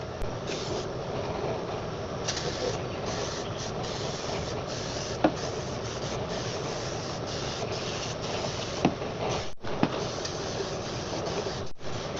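WD-40 Big Blast aerosol spraying onto a bare engine block in a steady hiss, with the spray coming in spurts and stopping briefly a few times near the end.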